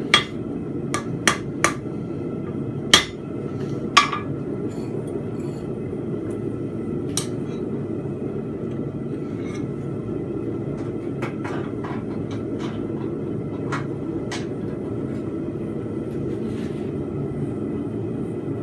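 Hammer blows on steel at the anvil, drawing out the taper of a fence peg: about six sharp strikes in the first four seconds, then only a few faint taps, over a steady low noise.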